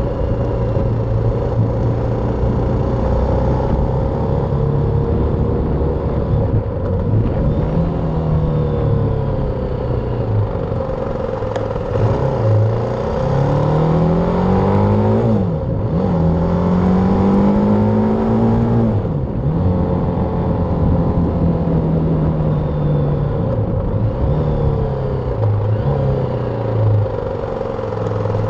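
BMW G310R's single-cylinder engine running steadily at low revs, then pulling away and accelerating. The pitch rises through the gears, drops sharply at two upshifts a little past halfway, then settles to a steady lower run near the end.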